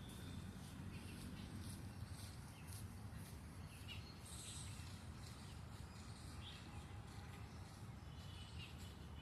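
Faint bird calls: a handful of short, high chirps scattered a second or two apart, over a steady low background rumble.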